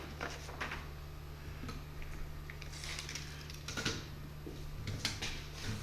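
Scattered light clicks and taps of small objects being handled, about one every second, over a steady low electrical hum.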